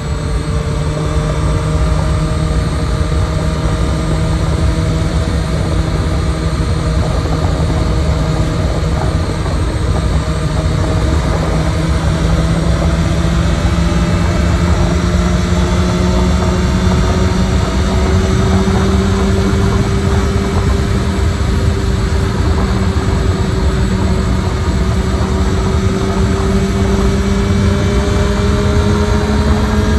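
Honda CB1000R's inline-four engine pulling steadily at highway speed, its pitch rising slowly as the bike accelerates from about 100 to 133 km/h, over heavy wind and road noise.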